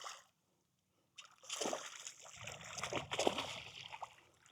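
Water splashing and sloshing in irregular bursts, starting about a second in.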